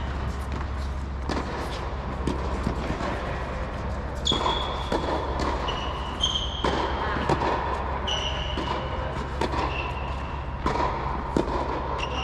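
Tennis balls being struck and bouncing over and over, in quick, uneven sharp knocks. From about four seconds in, short high-pitched squeaks come in between them several times.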